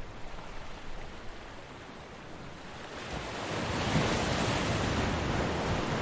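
Ocean surf: a wave breaks and washes up the beach, swelling about halfway through and staying loud near the end.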